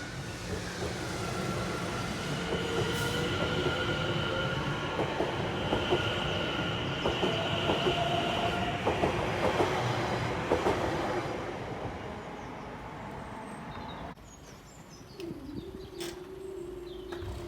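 A train passing over a level crossing, its wheels squealing with steady high tones on the rails and clicking over the rail joints. It fades away about two-thirds of the way through, and a steady low tone starts near the end.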